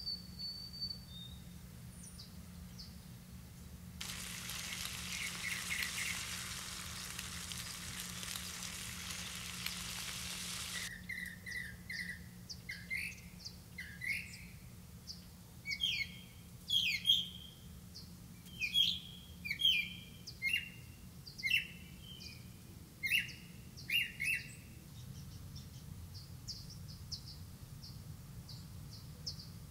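Birds chirping: a long run of short, sharp, downward-sweeping notes, about two a second, starting about eleven seconds in and thinning out near the end. Before them a steady hiss starts and stops abruptly.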